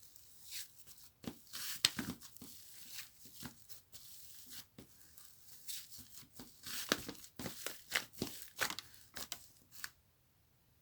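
Irregular crackling, tearing-like clicks and pops from something being handled up close, in quick uneven bursts that die away near the end.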